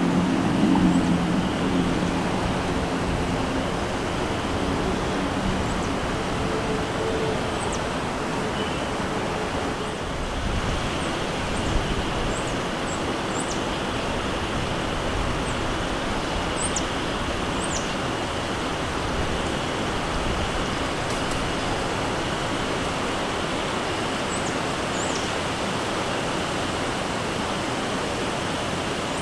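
A steady rushing noise with faint, very high, thin bird calls scattered through it, mostly in the middle stretch. A low engine hum fades out over the first few seconds.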